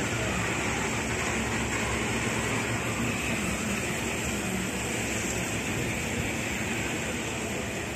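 Dunedin Railways passenger carriages rolling slowly past at close range: a steady noise of wheels running on the rails.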